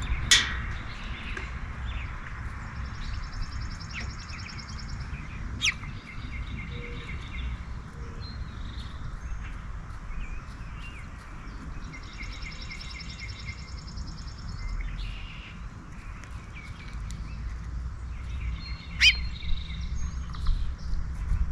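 A songbird singing a long, patterned song three times, with a few sharp high call notes between, over a steady low background rumble.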